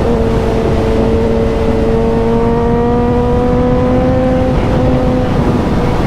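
Suzuki motorcycle engine running steadily at road speed, its pitch slowly rising for a few seconds and then dropping back about five seconds in, over heavy wind rumble.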